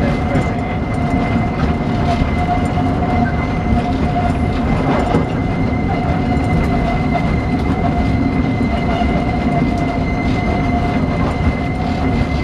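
Diesel locomotive and wagons running on the track, heard from an open wagon: a steady engine and wheel rumble with irregular clatter of wheels over the rails and a thin steady whine.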